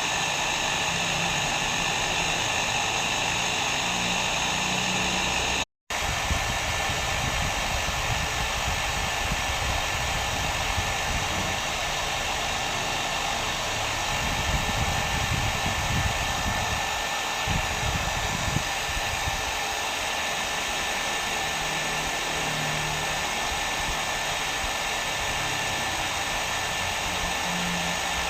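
Hair dryer blowing steadily, a continuous rushing noise with a faint high whine. It cuts out completely for a split second about six seconds in, then carries on.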